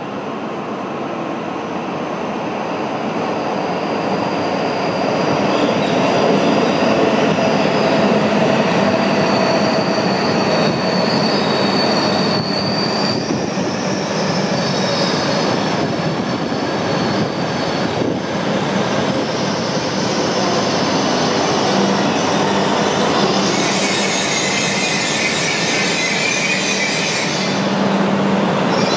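JR East E6 series Shinkansen train rolling slowly along the platform track: a steady rumble of wheels and running gear that swells over the first few seconds. Thin, high-pitched wheel squeals come in near the middle, and a high hiss rises near the end.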